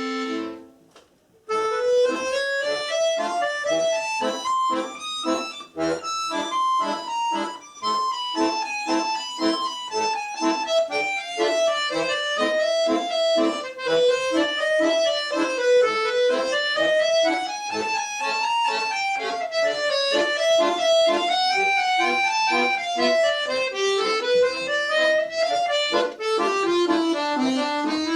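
Solo accordion playing: a held chord ends, and after about a second's pause a fast-moving melody with chordal accompaniment begins and runs on.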